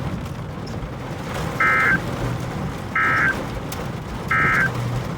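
Three short electronic beeps, evenly spaced about a second and a half apart, over a steady low vehicle cabin rumble.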